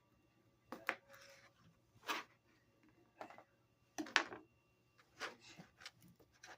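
Knife cutting food on a cutting board: irregular sharp knocks about once a second, some followed by a brief scraping hiss.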